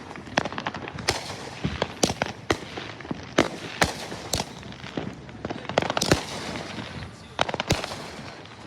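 Fireworks going off in an irregular string of sharp bangs, one or two loud ones a second, with smaller cracks and crackling between them.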